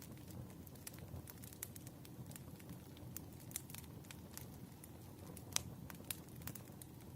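Wood fire crackling: irregular sharp snaps and pops over a low steady rumble, with one louder pop about five and a half seconds in.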